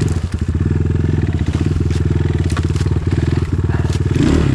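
Enduro motorcycle engine running at low revs in a steady chugging pulse as the bike creeps over rough ground, with a few short knocks.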